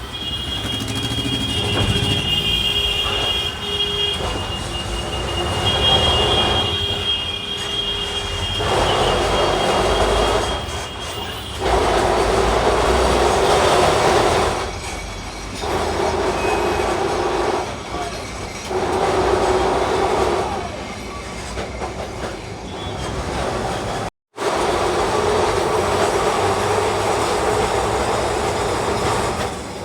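Electric street tram running on its rails: a steady rolling rumble of steel wheels, with a high, thin wheel squeal through the first several seconds. The sound cuts out for a moment about three-quarters of the way through.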